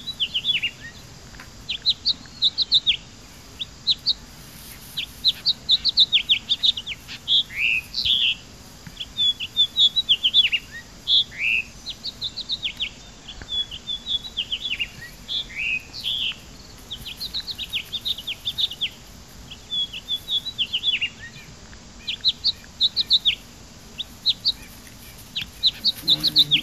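Small birds chirping: a busy stream of short, high chirps from several birds at once, with a few brief lulls.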